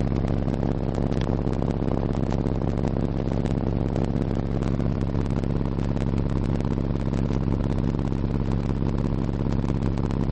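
Pair of RE Audio MX15 15-inch subwoofers in a ported box playing a loud, steady low bass test tone at high power, with a fast rattling buzz riding over it.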